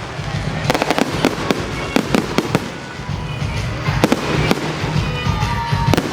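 Fireworks display going off: a fast, irregular run of sharp bangs and crackling pops, with a short lull midway, over music playing underneath.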